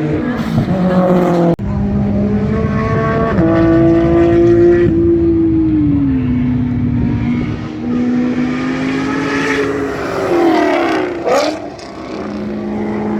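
Race car engines running hard on track, their pitch rising and falling through gear changes, with cars passing close by near the end.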